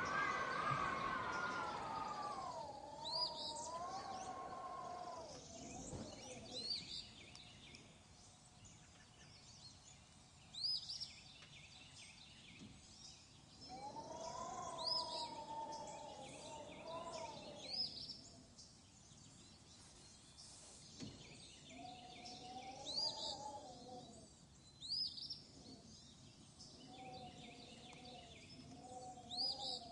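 Small birds chirping: short, high calls repeating every second or two. Behind them a lower wavering tone comes and goes in stretches of a few seconds.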